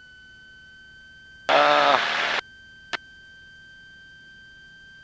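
Cockpit intercom audio with a faint, steady electrical whine that creeps slowly up in pitch. About a second and a half in, the intercom opens on a short vocal sound and a rush of noise, then cuts off abruptly. A single sharp click follows near the three-second mark.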